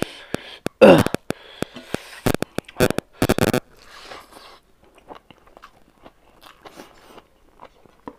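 Close-up eating sounds of someone chewing a mouthful of rice and smoked pork: a dense run of loud wet mouth smacks and clicks, turning to quieter, sparser chewing after about three and a half seconds.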